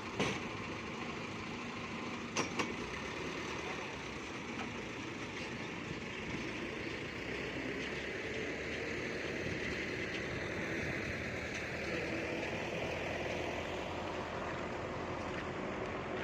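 Truck engine running steadily, with a few sharp clicks or knocks: one right at the start and two close together about two and a half seconds in.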